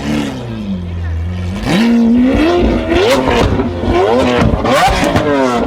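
Lamborghini Aventador V12 with a Capristo exhaust idling, then revved hard about a second and a half in, in repeated blips whose pitch climbs and drops, with sharp cracks and pops from the exhaust between the revs.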